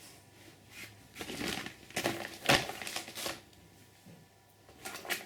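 Fireworks rocket packs being handled: scattered rustles of packaging and light knocks, with the sharpest knock about two and a half seconds in.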